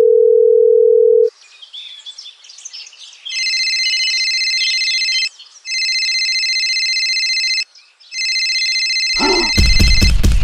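Telephone dial tone, a steady single tone that cuts off about a second in. Faint bird chirps follow, then a high electronic telephone ringing tone in three long bursts of about two seconds with short gaps. A loud low buzz joins the ringing near the end.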